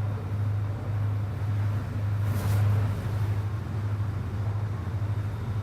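A ferry's engines droning steadily in a low hum under a hiss of wind and water, with a brief rush of noise about two and a half seconds in.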